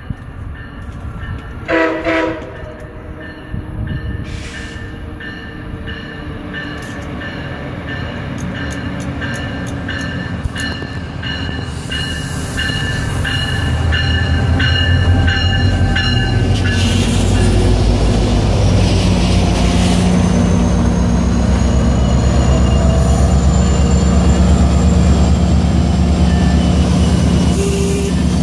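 MARC diesel locomotive approaching and passing: a short horn blast about two seconds in, then its bell ringing steadily as it draws near. From about halfway the loud, steady drone of the diesel engine and the coaches rolling past take over.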